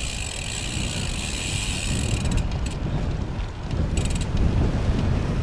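Wind buffeting the microphone of a moving bicycle, a low gusting rumble that grows louder; a steady high hiss underneath cuts off about two seconds in.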